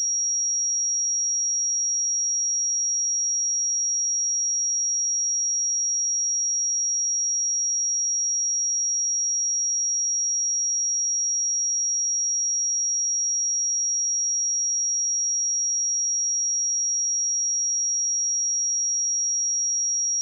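Steady, high-pitched pure sine-wave test tone at 5663 Hz, one unwavering pitch at a constant level.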